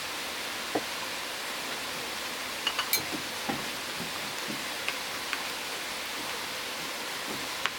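Steady sizzling hiss with a few small pops and crackles scattered through it, from meat grilling over wood-fire charcoal.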